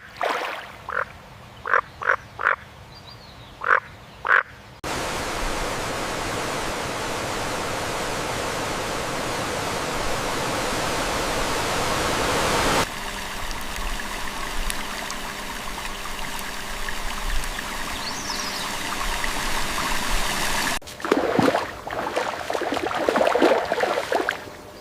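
Frogs croaking in short separate calls, then a steady rush of water noise from about five seconds in that grows softer with a low hum partway through; irregular knocks and scrapes near the end.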